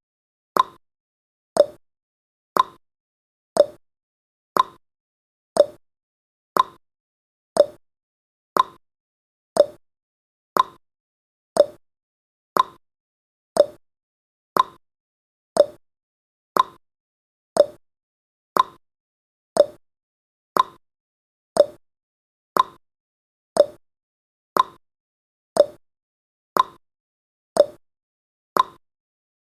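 Countdown timer's ticking sound effect: short, sharp clock-like ticks, one every second, in a steady rhythm.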